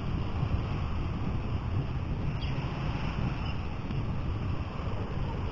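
Wind buffeting the microphone: a steady, low rumbling noise that flutters in loudness.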